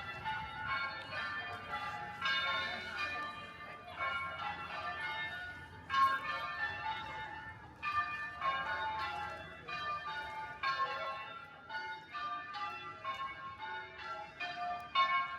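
Church bells ringing in a rapid run of strikes, several a second, as in change ringing.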